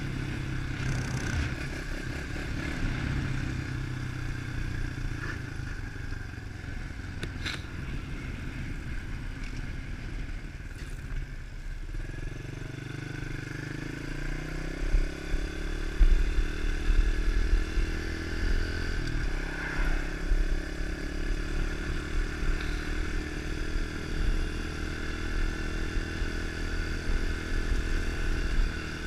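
110cc single-cylinder four-stroke pitbike engine running at a steady low note. About twelve seconds in, its pitch rises as the bike speeds up, and it holds the higher note, louder from about sixteen seconds.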